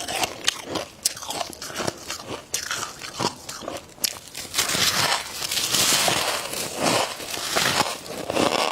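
Dry freezer frost being bitten and chewed: a series of sharp, crisp crunches, then a denser stretch of continuous crunching from about halfway through until near the end.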